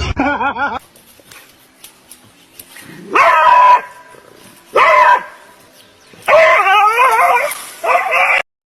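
A dog howling and barking in loud calls with wavering pitch. One call ends just under a second in, and four more follow in the second half; the third of these is the longest.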